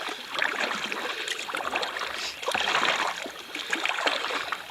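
Kayak paddle strokes in lake water: splashing and dripping that swell and fade about once a second.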